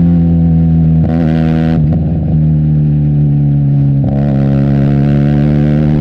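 Benelli TNT 300 parallel-twin engine running through an Austin Racing aftermarket exhaust at steady riding revs. The note wavers briefly and dips a little about two seconds in, and breaks briefly again about four seconds in.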